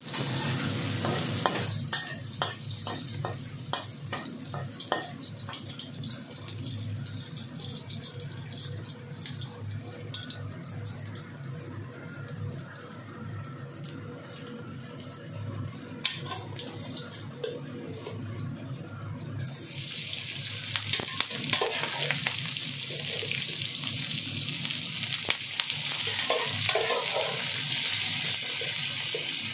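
Chopped garlic sizzling in hot oil in a wok, with a metal spatula knocking and scraping against the pan in the first few seconds. About two-thirds of the way through, a much louder, steady sizzle sets in as raw whole shrimp go into the hot oil.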